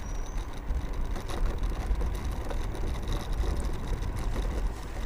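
Steady wind buffeting the microphone with tyre and road noise while riding an electric scooter, mostly a low rumble.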